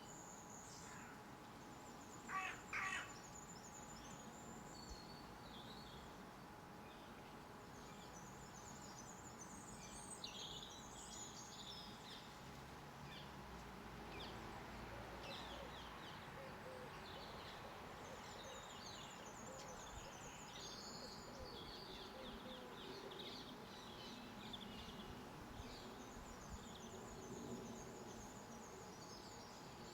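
Garden birds chirping and trilling, with many short high-pitched calls throughout and two louder, short harsher calls about two and a half seconds in.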